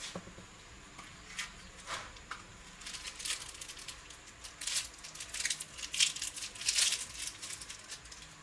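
A run of short scrapes and clicks, a few at first and then a dense cluster in the middle, as of hand work on small hard parts.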